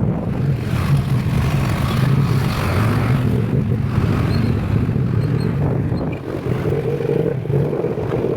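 A vehicle engine running steadily while on the move, mixed with road and wind noise.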